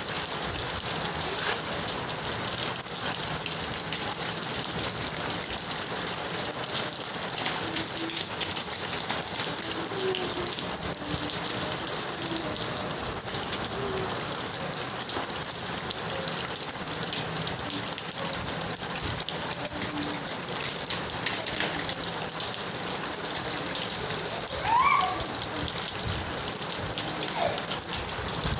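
Steady rain falling and pattering on surfaces, with one short rising squeak about 25 seconds in.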